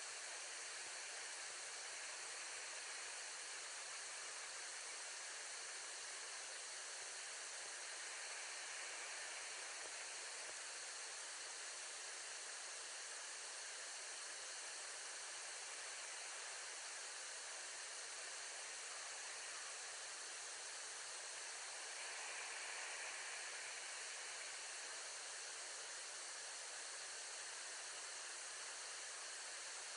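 Steady, even hiss with no distinct events, swelling very slightly about two-thirds of the way through.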